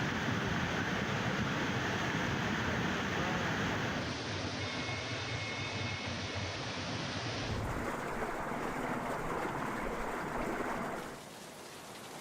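Rushing floodwater: a steady rushing noise that changes abruptly between clips about four, seven and a half and eleven seconds in, and is quieter after the last change.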